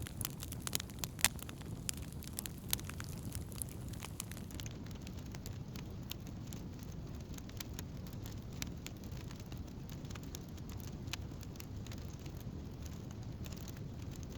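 Wood campfire burning and crackling, with sharp pops that are loudest and most frequent in the first few seconds, over a steady low rumble.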